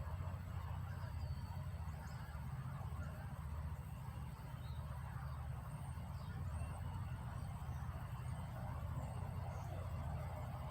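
Steady low mechanical rumble with an uneven pulse, with a few faint bird chirps over it.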